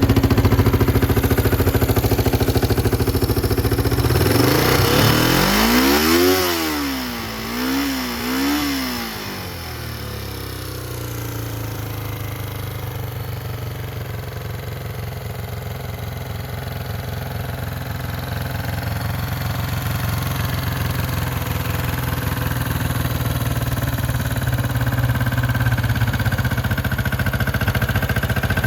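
1972 Honda CL350 Scrambler's air-cooled parallel-twin engine running, revved up and down twice about five to nine seconds in. It then settles to a steadier, lower note that slowly grows louder.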